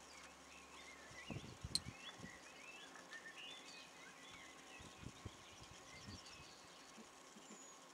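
Faint chirping of small birds, busiest in the first half. A few low knocks and one sharp click come a second or two in, over a faint steady tone.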